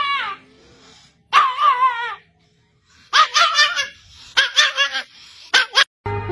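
A dog whining and yipping in a string of high-pitched cries whose pitch bends up and down, with short pauses between them. Music cuts in at the very end.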